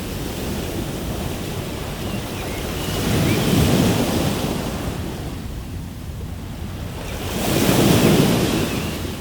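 Ocean surf: waves breaking on a shore in a steady wash, with two waves swelling up and falling away about four seconds apart.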